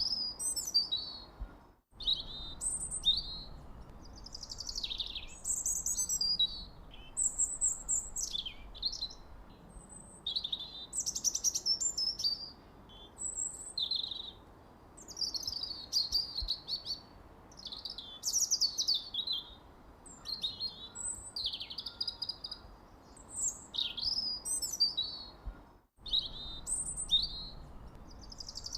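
Several small songbirds chirping and tweeting in quick, overlapping high-pitched calls and short warbled phrases, many sweeping up or down in pitch. The sound drops out completely for a moment about two seconds in and again near the end.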